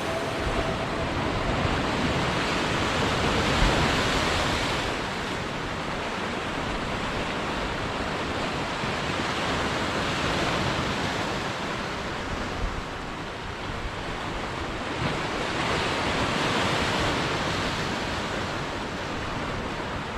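Steady rushing of falling water from a waterfall, swelling slightly a couple of times.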